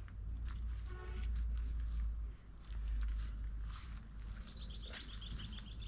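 A bird gives a quick run of high chirps near the end, over a steady low rumble and scattered clicks.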